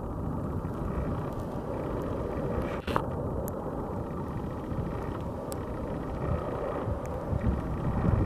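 Boeing 757-200F cargo jet's engines, a steady rumble that swells near the end, with wind buffeting the microphone.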